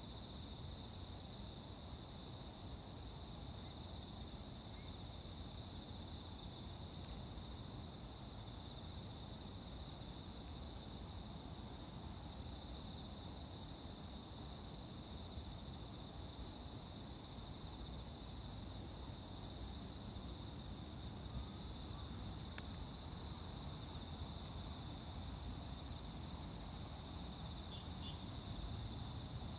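A chorus of singing insects: several steady, high continuous trills, with one voice pulsing in an even repeating beat, over a low steady rumble.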